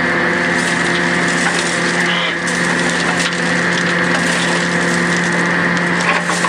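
Hydraulic pile breaker working, with a steady machine hum under dense crackling throughout.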